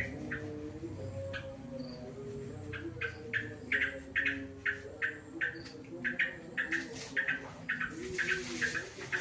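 A bird calling with short, sharp chirps. They come sparsely at first, then at about three a second from around three seconds in, over a lower wavering tone.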